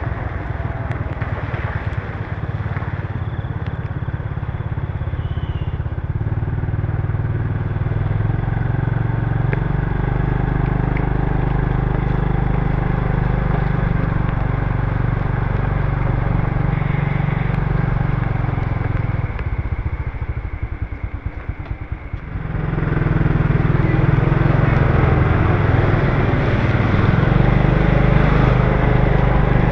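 Motorbike engine running on the move, under a steady hiss of wind and tyres on a rain-wet road. About twenty seconds in the engine drops to a quieter, pulsing low note for a few seconds, then picks up and runs louder again.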